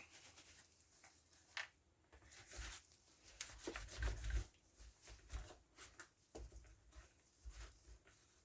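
Quiet handling noises: scattered light clicks and rustles with a few soft bumps, the loudest about four seconds in.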